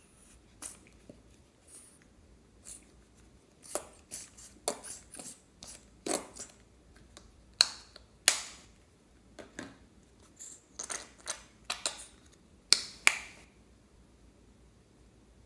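Slime being squeezed and worked by hand, giving irregular sharp pops and clicks that come in a run for about ten seconds and then stop.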